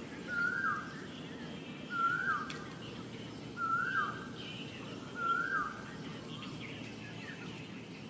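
A bird calling four times, a short call roughly every second and a half, each one rising then dropping in pitch, over a steady low background noise.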